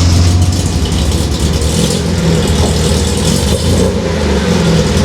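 1972 MGB GT's 1.8-litre four-cylinder engine running steadily at idle just after start-up.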